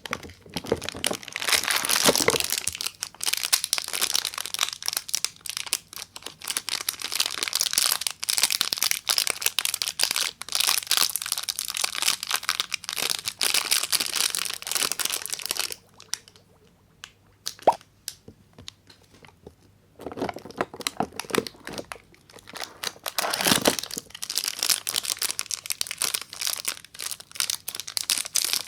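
Wrapping of a bar of soap being torn and crinkled, in dense crackling runs that stop for a few seconds about halfway through, broken only by a couple of sharp clicks, then start again.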